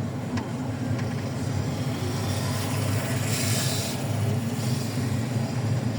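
Steady low rumble of a vehicle in motion, with a brief hiss swelling and fading about three and a half seconds in.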